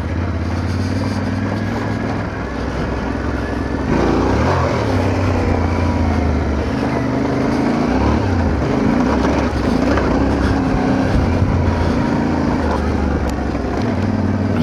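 Motorcycle engine running under load on a rough off-road track. The revs pick up and it gets louder about four seconds in, then the engine note dips and climbs again around eight seconds in.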